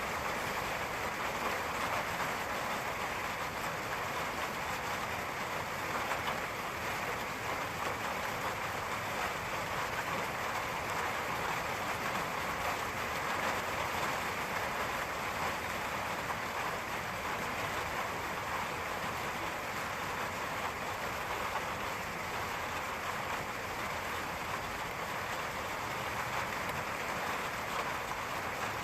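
Steady rain falling, an even dense hiss with no thunder or other events standing out.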